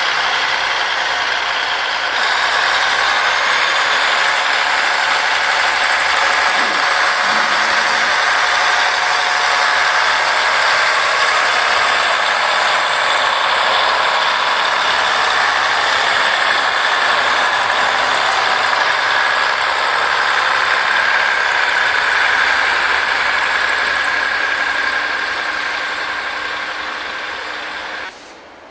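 Diesel multiple unit running past at low speed: a steady engine and running noise with a held whine. It eases near the end and cuts off suddenly.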